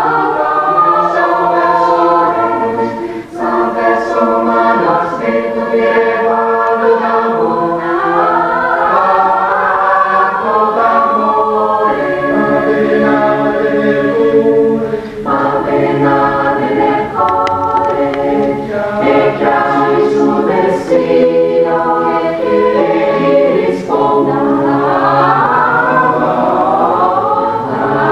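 Choir singing a cappella in several voice parts, held chords moving from one to the next, with short breaks between phrases about three and fifteen seconds in.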